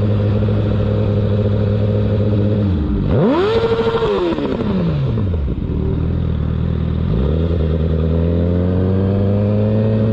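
Motorcycle engine running at a steady pitch, revving sharply about three seconds in and falling back, then pulling up steadily again from about seven seconds in as the bike accelerates.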